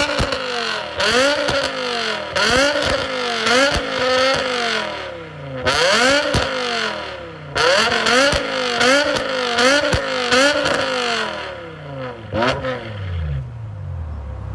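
BMW E60 M5's V10 engine, running catless headers into a straight-piped exhaust, revved over and over in quick blips, its pitch rising and falling about once a second in several runs with short breaks. Near the end it drops back to a steady idle.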